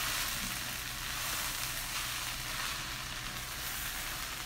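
Quinoa, vegetables and mushrooms sizzling steadily in a hot cast iron skillet as a wooden spoon stirs them. The quinoa is crisping and caramelizing, slightly burnt on the bottom of the pan.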